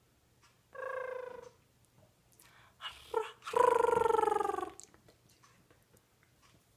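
A pet parrot making two buzzy, raspy calls: a short one about a second in, then a longer, louder one that falls slightly in pitch.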